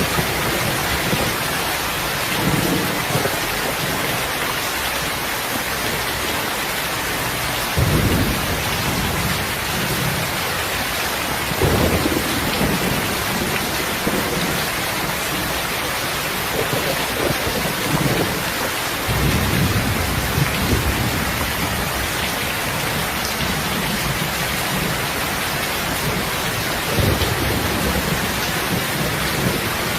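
Steady heavy rain, a dense even hiss, with low rumbles swelling up four times.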